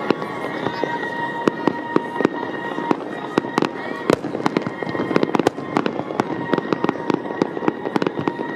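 Fireworks display going off in quick succession: many sharp bangs and crackles a second from bursting shells, over a dense continuous din. A steady held tone runs through most of it.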